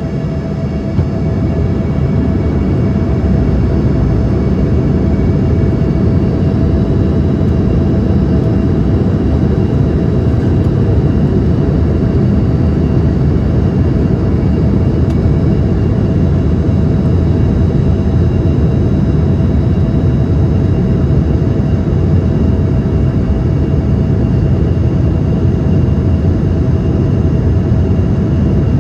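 Steady cabin noise of an Embraer ERJ-145: a loud, even rumble of engine and airflow with a steady whine from its rear-mounted Rolls-Royce AE 3007 turbofans. It swells slightly in the first couple of seconds, then holds level.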